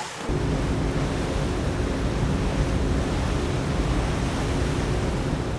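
Wind buffeting the microphone on a moving motorboat, over the boat's steady engine hum, with a sudden jump in loudness just after the start.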